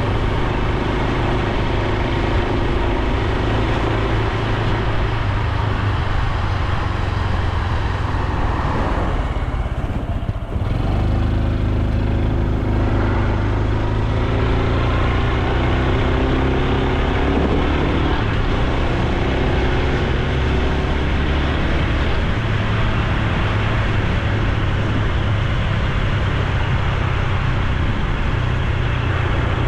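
Honda Super Cub C125's single-cylinder four-stroke engine and exhaust running while the bike is ridden, with steady road and wind noise. The engine note drops briefly about ten seconds in, then climbs again in rising pitch.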